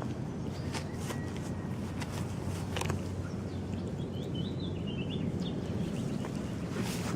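Outdoor ambience: a steady low rumble with scattered faint clicks, and a short twitter of small bird chirps about four to five seconds in.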